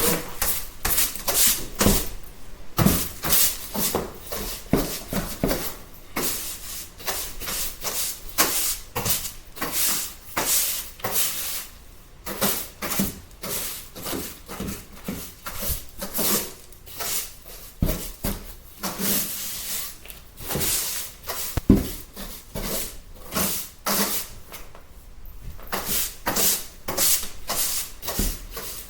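Broom sweeping a floor: a long run of short, scratchy bristle strokes, one or two a second.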